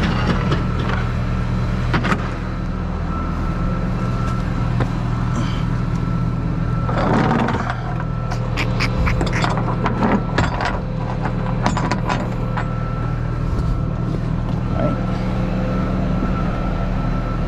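Tow truck's engine running steadily with a thin, steady whine over it, and a run of sharp clicks and rattles from about seven to twelve seconds in.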